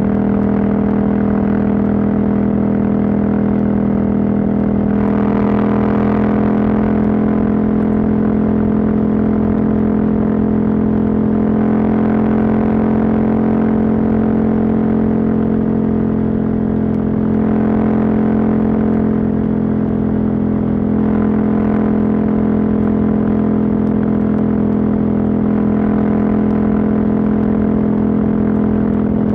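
Husqvarna Norden 901's parallel-twin engine, catalytic converter removed, running steadily at cruising speed, its note holding an even pitch. A rushing noise swells up over it a few times.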